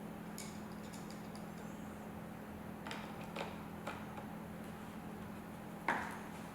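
Small scattered clicks and taps of a Phillips screwdriver and screws being started into a speaker grill on a saddlebag lid, with one louder knock near the end, over a faint steady hum.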